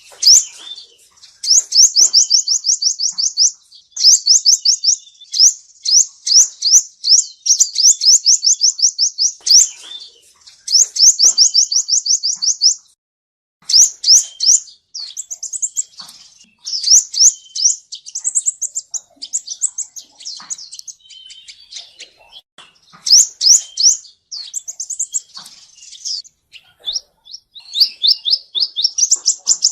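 Male sunbird singing: fast, high trills of quick repeated sweeping notes, in runs of a second or two with short breaks between them.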